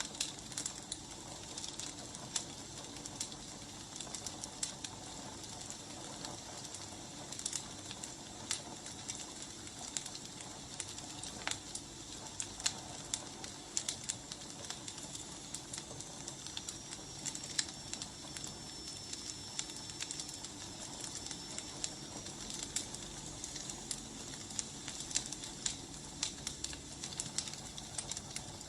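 Wood fire crackling, with irregular sharp pops and snaps over a steady hiss. A faint high whistle holds for several seconds midway.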